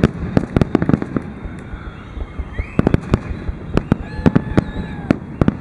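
Aerial fireworks shells bursting in a finale barrage: a rapid cluster of booms and cracks in the first second, a short lull, then dense volleys of bursts from about three seconds in.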